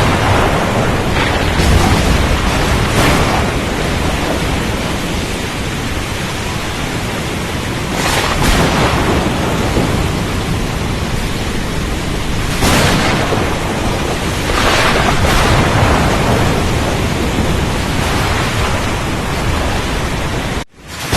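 Storm at sea: a continuous heavy roar of rain, wind and rough water with low rumbling, swelling in louder surges every few seconds. The sound cuts out for a moment near the end.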